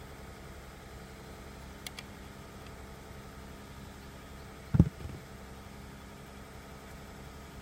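A dull knock about five seconds in, with a softer second knock just after, over a steady low hum; two faint light clicks come about two seconds in.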